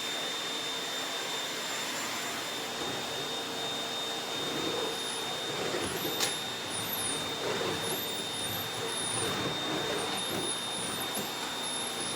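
Vacuum cleaner running steadily with a high whine. From about four seconds in there is uneven crackling and rattling, with one sharp click about six seconds in, as things are sucked up through the nozzle.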